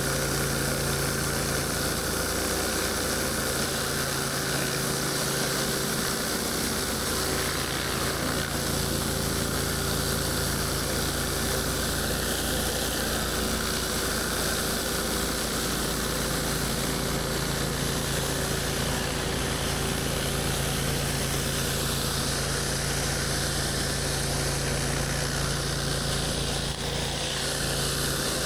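Gas engine of a pressure washer running steadily under load, with a continuous hiss of high-pressure water spray over it.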